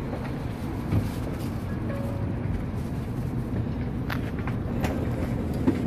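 Steady low rumble of a train carriage's interior, with a few light clicks and knocks as passengers move along the aisle to their seats.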